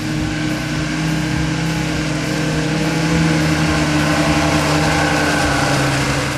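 Off-road vehicle engine running steadily, with a steady hum and road noise.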